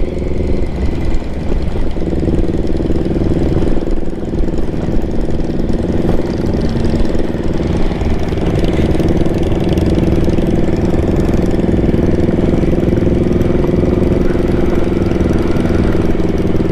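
Triumph Tiger's three-cylinder engine running steadily at low speed while the motorcycle rides over a bumpy off-road track. The engine note dips briefly about a second or two in.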